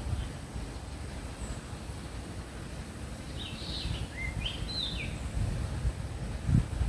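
Sooty-headed bulbul calling: one short phrase of several quick notes, some rising and some falling, a little past halfway through.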